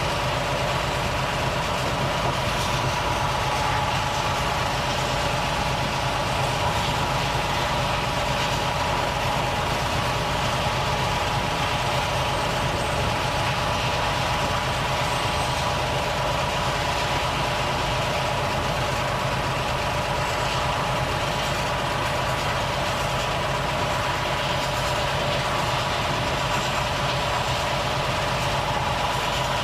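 Volvo FH truck's diesel engine running steadily with a low rumble and a steady high tone over it, no change in speed or load.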